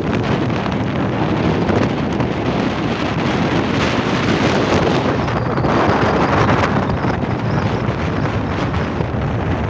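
Strong wind buffeting the microphone during a windstorm: a loud, continuous rushing noise that swells a little around the middle.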